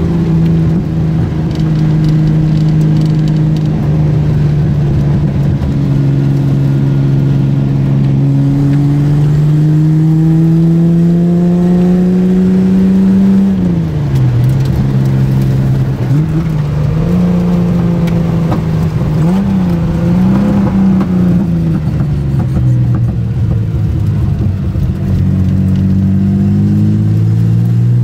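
A 1973 Datsun 240Z's straight-six engine under way through an old exhaust system. The engine note climbs steadily through the first half and drops sharply about halfway. It then wavers up and down and climbs again near the end.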